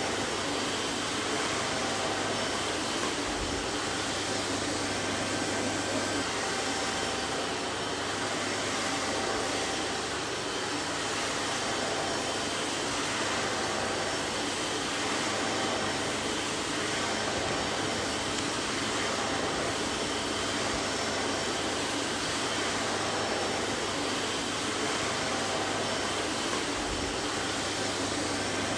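Vacuum cleaner running steadily: an even whooshing hiss of moving air over a low motor hum, with no change in pitch or level.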